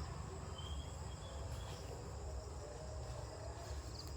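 Crickets chirring steadily in high, unbroken tones over a low rumble.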